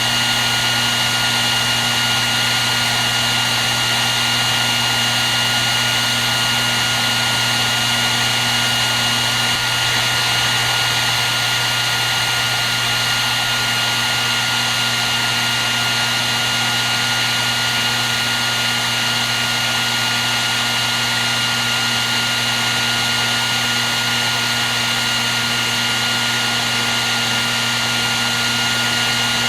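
Hair dryer running steadily: a constant rush of air with a steady high whine from its fan motor and a low hum beneath.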